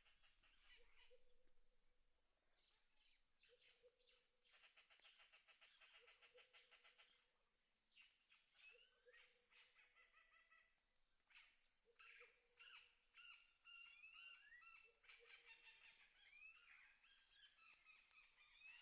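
Faint rural outdoor ambience of birds chirping, busier in the second half, with a short low note repeating about every second and a half and a steady high buzz underneath.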